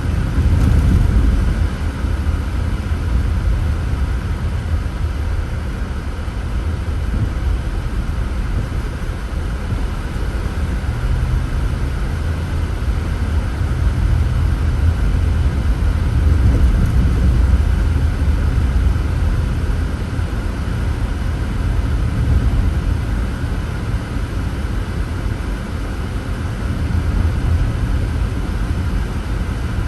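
Car driving along a road: a steady low rumble of engine and tyre noise, rising and falling slightly in loudness.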